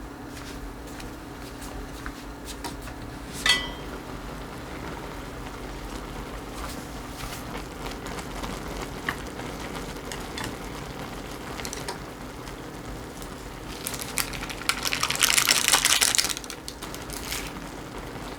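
Kitchen cooking sounds over a steady low hum: scattered light clicks, a single ringing metal clink about three seconds in, and a loud two-second burst of rustling noise near the end.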